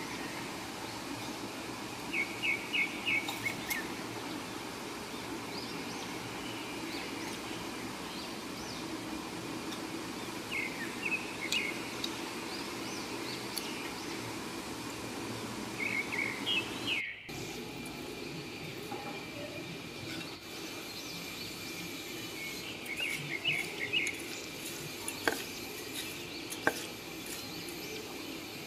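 Small birds chirping in short runs of quick notes every few seconds over a steady background noise, with a couple of sharp clicks near the end.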